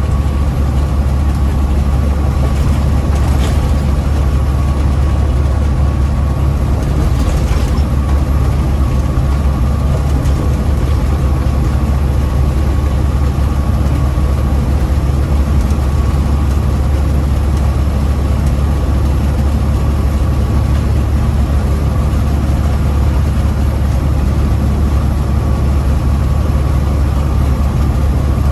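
Heavy diesel engine of a loaded big-rig truck running steadily, heard from inside the cab as a loud, even low drone with a faint steady whine above it.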